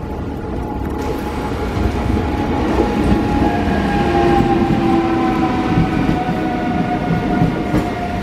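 Train running through the station, its wheels rumbling and clattering on the rails, growing louder over the first few seconds, with a high whine that slowly falls in pitch.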